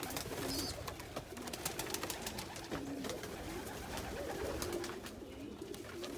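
Several domestic pigeons cooing together, overlapping low rolling coos, with scattered light clicks and rustles from the birds moving about.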